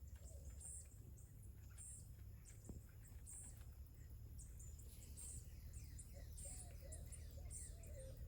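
Faint birds chirping and calling, the high chirps coming at about one a second and growing busier about five seconds in, with a wavering lower call joining them, over a low steady rumble.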